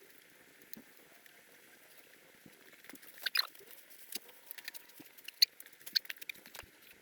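Faint steady hiss, then from about three seconds in a run of irregular sharp clicks and light taps, the loudest two near the middle.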